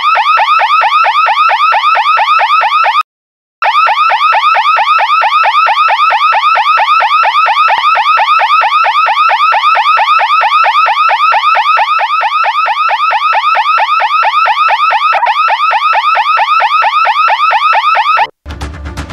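Loud electronic alarm siren: a fast-repeating rising whoop, several sweeps a second. It breaks off briefly about three seconds in and cuts off near the end.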